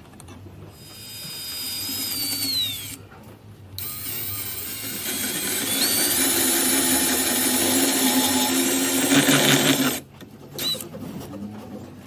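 Power drill spinning a hole saw into wood. A short run winds down with a falling whine. After a brief pause comes a louder run of about six seconds that stops suddenly.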